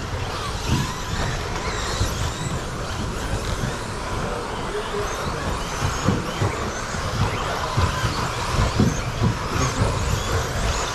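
A pack of 1/10-scale electric RC stadium trucks with 13.5-turn brushless motors racing on a carpet track: overlapping motor whines that rise and fall with the throttle, over tyre noise and scattered low thuds.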